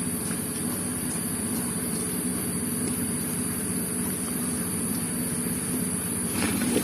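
A small engine running steadily at one speed, with a louder noisy sound joining in near the end.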